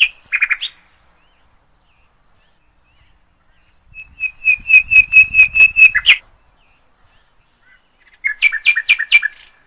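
A bird calling in runs of quick repeated notes at a steady pitch: a short run at the start, a run of about ten notes in the middle, and another of about six near the end.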